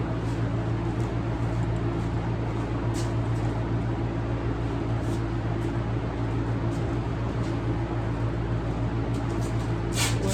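Steady low machine hum, like a fan or other shop machine running, with a few faint scattered clicks and a small cluster of taps near the end.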